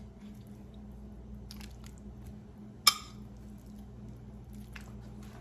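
Raw chicken pieces being laid into a pan of cream sauce: soft squishing and a few light clicks, with one sharp clink about three seconds in, over a low steady hum.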